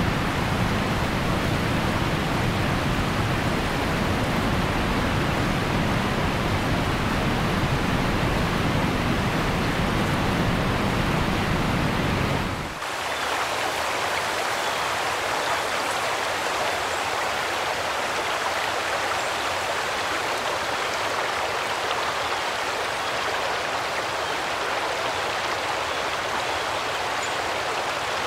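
Heavy rain pouring down in a steady hiss. For roughly the first half a deep rumble runs underneath it, then cuts off abruptly, leaving only the rain.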